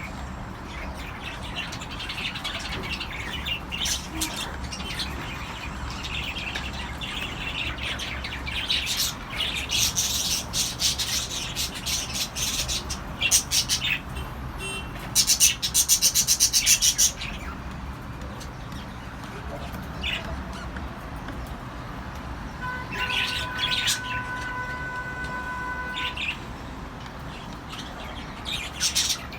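Cockatiels chirping and calling, with a loud, fast run of repeated chirps about halfway through and a long held steady note near the end, over a low steady hum.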